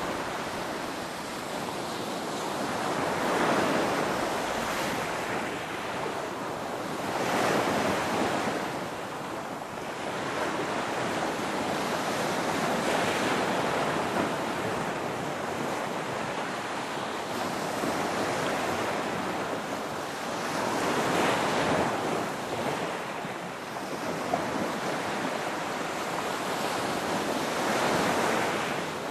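Ocean waves breaking and washing in, the surf swelling and easing every few seconds.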